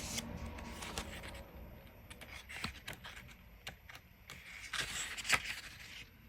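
Sheets of a 6x6 patterned paper pad being flipped and handled: soft paper rustles and light clicks, with a louder rustle about five seconds in.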